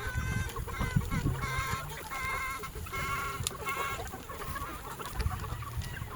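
A flock of gamefowl chickens clucking and calling, several short calls overlapping.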